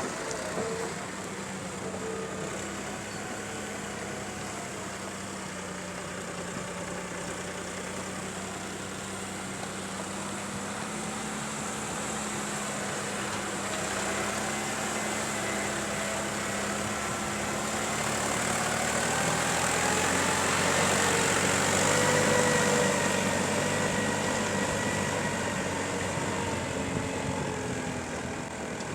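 Diesel engine of a JCB 3DX backhoe loader running steadily, revving up about two-thirds of the way through and then easing back down.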